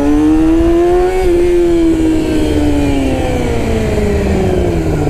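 Sport motorcycle engine running while riding. Its pitch climbs slightly for about a second, then eases down slowly.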